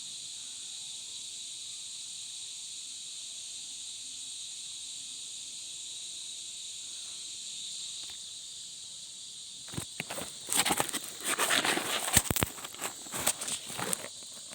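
Steady high-pitched chirring of night insects such as crickets. About two-thirds of the way in, loud rustling and knocking close to the microphone takes over: handling noise or footsteps on the bank.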